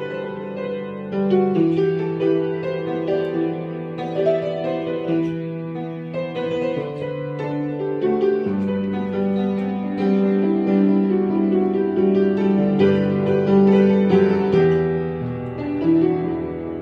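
Piano playing the song's instrumental outro: sustained chords over a steady bass line, without vocals.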